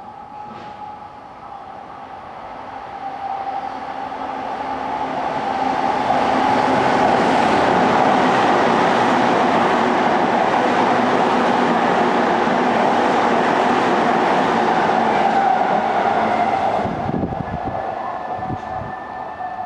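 JR East E233 series 2000 electric train passing through a station at speed without stopping. The running noise builds over the first several seconds, stays loud while the cars go by, and falls away sharply near the end as the last car clears.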